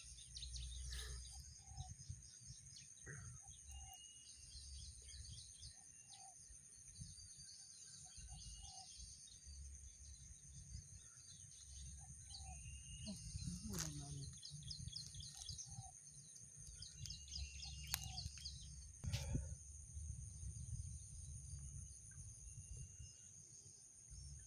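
Rice-field ambience: a steady high insect drone in two pitches with scattered bird chirps and short repeated calls, over a low rumble of wind or handling noise. Two sharp clicks, about 14 and 19 seconds in.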